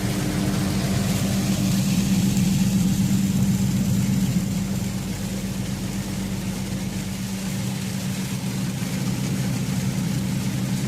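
Semi truck's diesel engine running steadily, its note shifting slightly about seven and a half seconds in.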